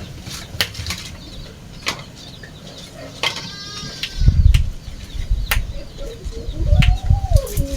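Farmyard sounds: irregular sharp knocks and clicks, a short pitched animal call about three seconds in, and a low wavering call near the end, with low rumbles in between.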